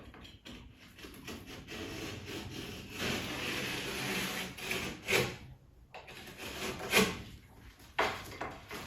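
Wood rubbing and scraping for a few seconds, then three sharp knocks, the second the loudest.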